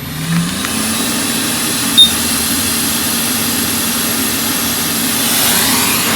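Hot air rework station's fan spinning up with a rising hum, then blowing steadily with a constant hum and airy hiss. A short, loud high beep sounds about two seconds in.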